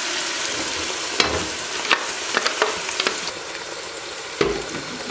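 Blended ginger and garlic purée sizzling and frying in hot oil in a pot, with a few sharp clicks of the ladle against the pot.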